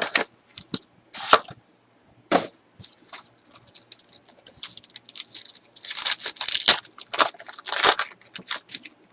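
Packaging being torn open and crinkled by hand, a run of irregular rustles and crackles that is busiest near the end, as a sealed box of trading cards is unwrapped and opened.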